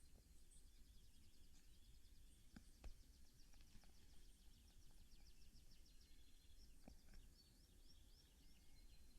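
Faint songbird song in woodland: a long run of rapid, high repeated notes, with a few soft clicks.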